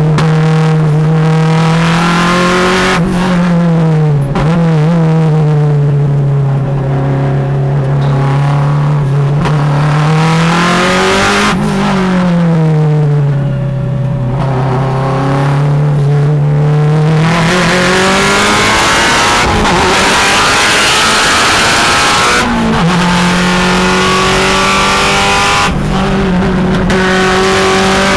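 Subaru STi race car's engine heard from inside the cabin at racing speed, its pitch sinking and climbing again several times as the car brakes, shifts and accelerates through corners, with heavy road and wind noise underneath.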